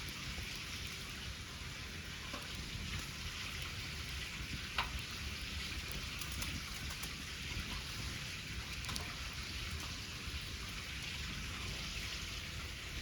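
Wood fire crackling: a steady hiss with a few sharp pops scattered through it.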